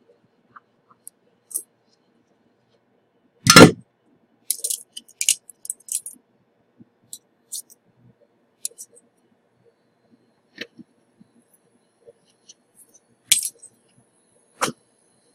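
Small metal tools clinking and tapping on a repair bench. A loud knock comes about three and a half seconds in, then a quick cluster of light high ticks, and two more sharp taps near the end.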